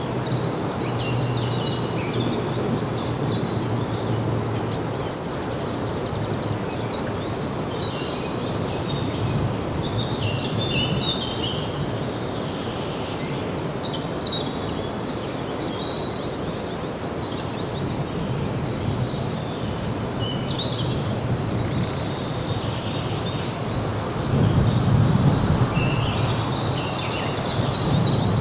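Small birds chirping on and off over a steady low background rumble, which grows louder about three-quarters of the way through.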